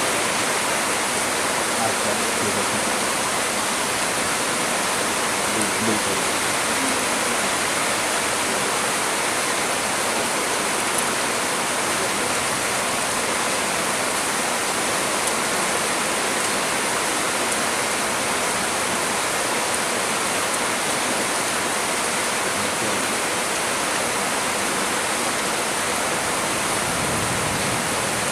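Heavy storm rain pouring steadily onto trees, a dense, even hiss with no break.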